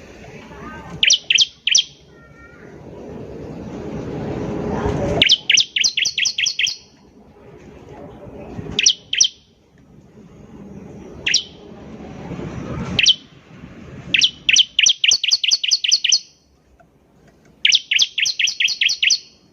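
Bar-winged prinia (ciblek) singing: several bursts of rapid, sharp, high chipping notes in runs of two to about nine. A harsh, noisy sound swells louder before some of the bursts.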